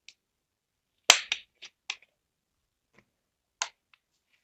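Plastic cap of a bottle of two-stroke engine oil being opened: a sharp click about a second in, quickly followed by a few smaller clicks, and one more click near the end.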